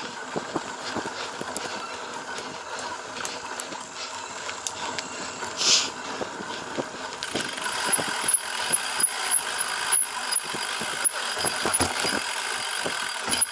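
Cyclocross bike ridden over rough ground: a steady rattle of chain and frame with many short knocks over bumps, busier and louder in the second half, and a brief hiss about halfway through.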